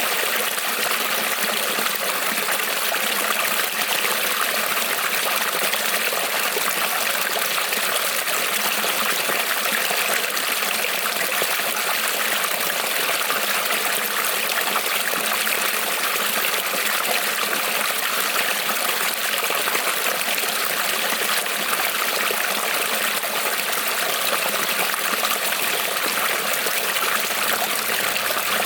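Small creek rippling and trickling over stones, a steady, even babble of running water.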